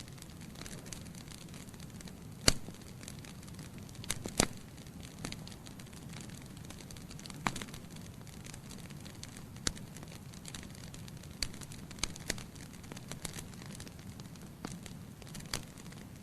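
Wood fire burning in a fireplace: a steady low hiss broken by irregular sharp crackles and pops, the loudest about two and a half and four and a half seconds in.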